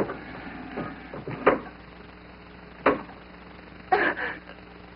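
A few short, sharp knocks and clicks, spaced a second or more apart, over a steady low hum.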